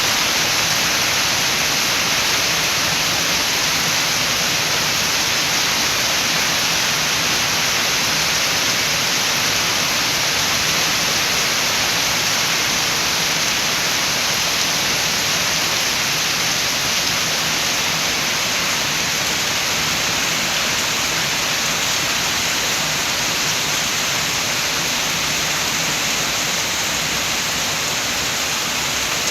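Rain falling steadily with wind: an even, unbroken hiss that holds at one level throughout.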